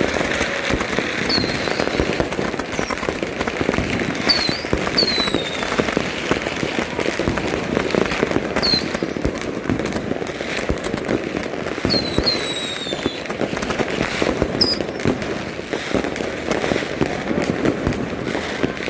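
Many fireworks and firecrackers going off at once: a dense, unbroken rattle of bangs and pops, with several short high whistles that fall in pitch.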